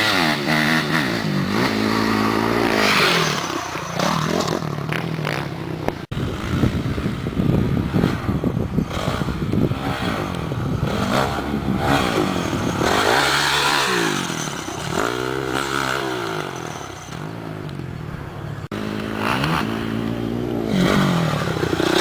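Honda CRF250R four-stroke single-cylinder motocross bike engine revving up and down again and again as it is ridden around the track, the sound dropping out briefly twice.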